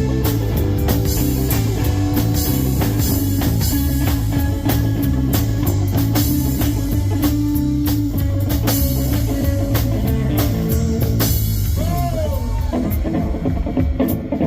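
Live blues-rock band playing an instrumental passage: electric guitar lines over a steady bass pattern and a drum kit. Near the end a guitar note bends up and down.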